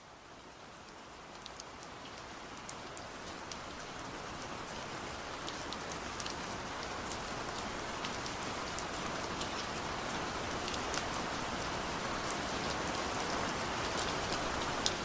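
Steady rain, with individual drops ticking sharply over a continuous hiss, growing gradually louder over the first several seconds.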